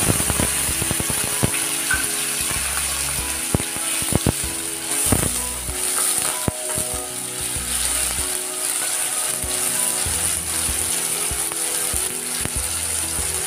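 Onion paste sizzling as it fries in hot mustard oil in a steel kadhai, a steady hiss, with a metal spatula scraping and clicking against the pan as it is stirred.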